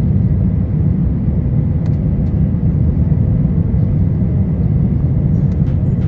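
Steady low rumble of an Airbus A350-1000's Rolls-Royce Trent XWB engines and rushing air, heard inside the passenger cabin.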